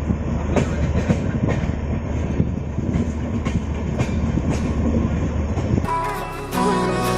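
A passenger train running along the track: a steady rumble with repeated clacks of the wheels over the rail joints. Music comes in near the end.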